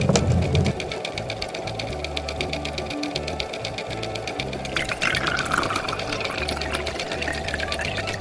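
A small machine running with a rapid, even clatter of clicks.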